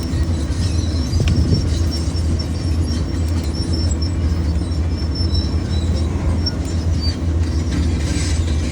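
An engine running steadily with a low, even hum, and a small metallic click about a second in.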